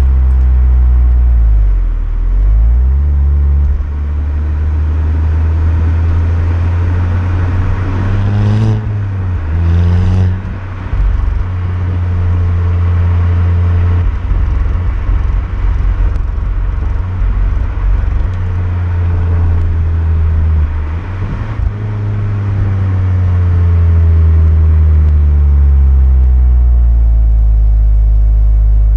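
Volkswagen Golf Mk6 GTI's 2.0 TSI turbocharged four-cylinder engine and exhaust while driving. The revs dip about two seconds in and rise sharply twice around nine and ten seconds. They then hold steady for a while, dip again about two-thirds of the way through, and climb steadily toward the end.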